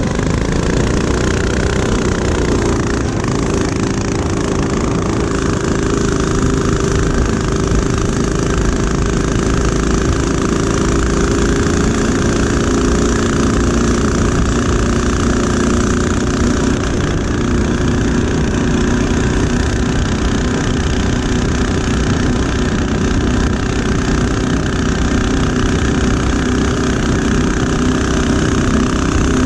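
Mini-bike's small single-cylinder four-stroke engine running steadily under way, its pitch holding roughly level with small rises and dips.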